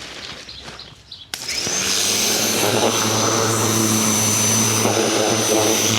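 Ryobi 2000 PSI electric pressure washer kicking in about a second in as the trigger is pulled: its motor whine climbs quickly to a steady high pitch over a low hum, under the loud steady hiss of the water spray.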